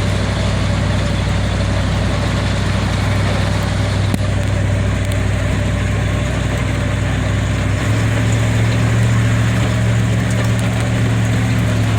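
Vehicle engine running steadily while driving along a dirt road, with the engine note changing about eight seconds in.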